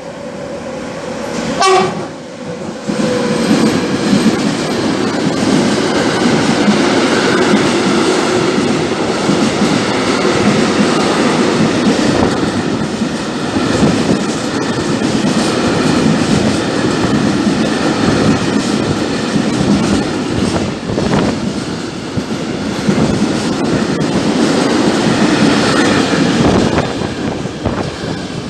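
A freight train passing through the station, its wheels clattering steadily over the rail joints, with a short horn blast about two seconds in.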